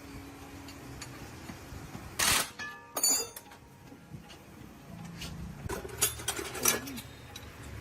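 A few sharp metallic knocks and clinks of tools and parts being handled; one strike about three seconds in rings briefly, and a cluster of knocks comes near the end.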